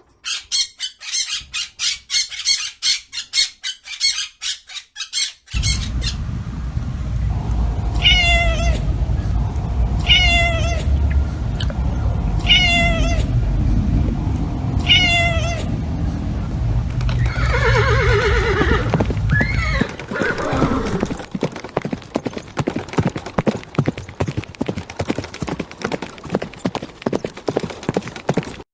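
Domestic cat meowing four times, about two seconds apart, over a low rumble. A fast, even pulsing sound comes before it and returns after it.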